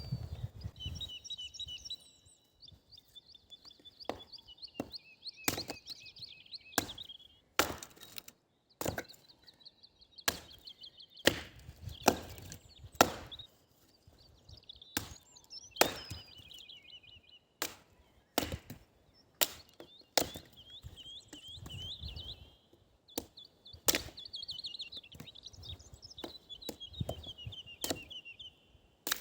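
Wood being chopped: sharp, irregular strikes, roughly one every second or two, with birds singing in trills behind.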